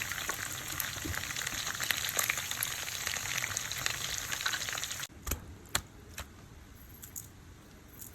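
Chicken frying in hot oil, a dense sizzle and crackle that cuts off abruptly about five seconds in. A few separate clicks and knocks follow in the quieter remainder.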